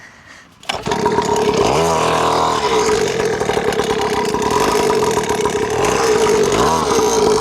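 Mini dirt bike's small engine idling, coming in suddenly just under a second in, with two brief throttle blips that rise and fall, one about two seconds in and one near the end.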